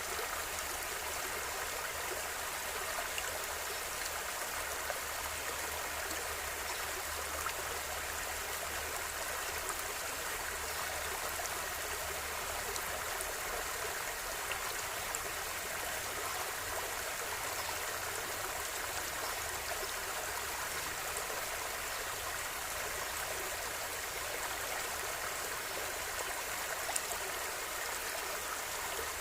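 River or stream water flowing steadily over stones, with a constant rushing and fine splashing and no breaks.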